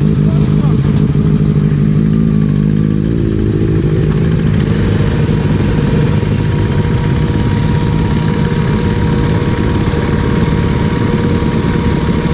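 Motorcycle engine running steadily close to the microphone, its pitch shifting slightly about three seconds in.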